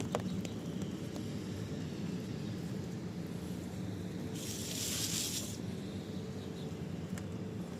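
Steady rain noise on a walk in the rain, with a click or two of footsteps at the start and a brief high hiss lasting about a second just past the middle.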